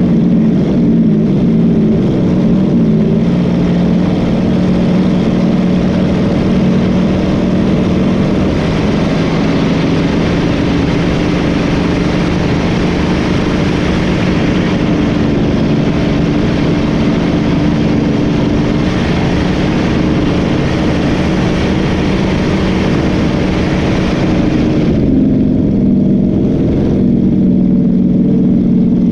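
A large boat engine runs steadily at speed under a strong rush of wind and water. The rushing drops away about 25 seconds in, leaving the engine's drone.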